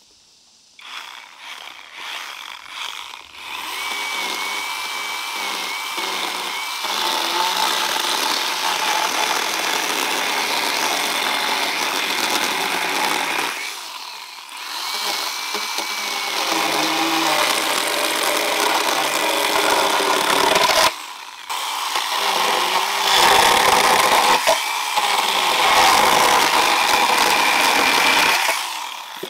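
Chainsaw running and cutting wood. It dips briefly near the middle and cuts out suddenly for a moment about two-thirds through before running again.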